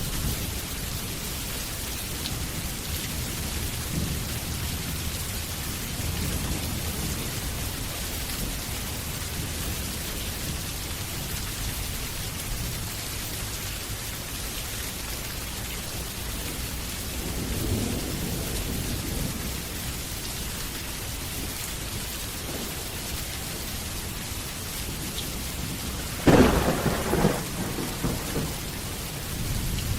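Steady rain falling, with low rolling thunder in the background. Past the middle comes a swell of rumble, and a sharp, loud thunderclap breaks near the end and rumbles off.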